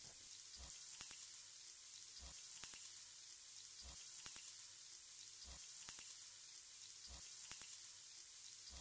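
Chicken pieces sizzling faintly in oil in a pot, a steady soft hiss, with a soft low thump about every second and a half.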